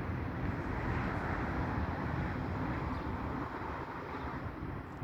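Steady low rumble of a vehicle engine running outdoors, with no distinct events.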